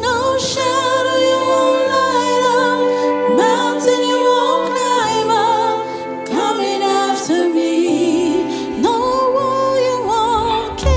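Gospel worship song: a sung melody with held, wavering notes over instrumental accompaniment with sustained bass notes.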